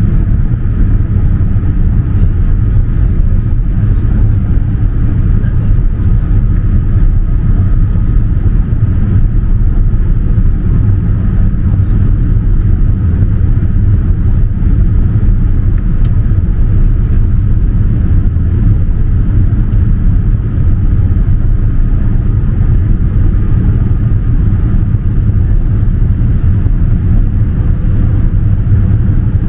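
Steady cabin noise inside a Boeing 787-9 airliner during descent: a loud rumble of airflow and engine noise, heaviest in the low end, with a faint steady high tone running through it.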